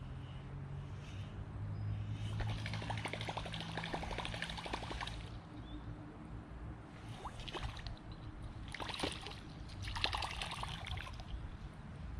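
Water trickling and splashing in a few short spells, over a low steady hum.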